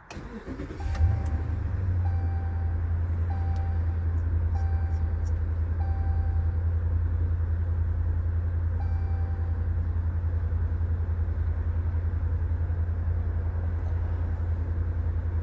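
A car engine starts about a second in and then idles steadily with a low hum. A short beeping chime sounds about once a second several times, then once more near the middle.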